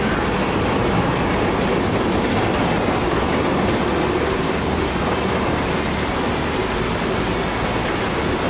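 Steady, loud rumbling and clattering of demolition work, continuous with no single big crash.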